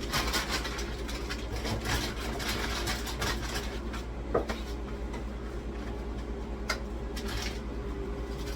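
Groceries and containers being moved around and set down on fridge shelves: scattered knocks, clatters and rustles, with sharper knocks about four and a half and almost seven seconds in, over a steady low hum.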